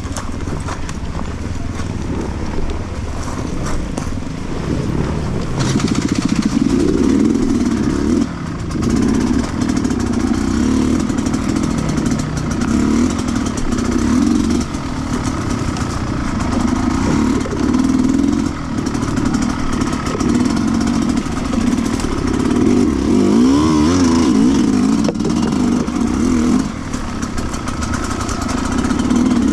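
Sherco 300cc two-stroke enduro motorcycle being ridden on a dirt trail. The engine keeps rising and falling in pitch with the throttle, dropping off briefly every few seconds between bursts.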